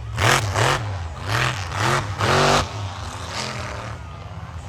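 Monster truck engine revving in quick blips: about five sharp rises and falls in pitch over the first two and a half seconds, then settling to a steadier, lower and quieter note.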